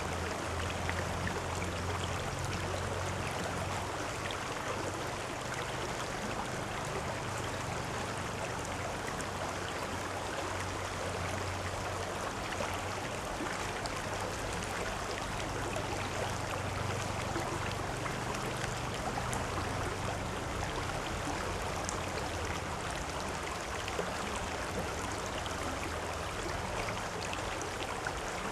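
Stream water flowing and rushing steadily over stones, with a low rumble underneath that weakens after about two-thirds of the way through.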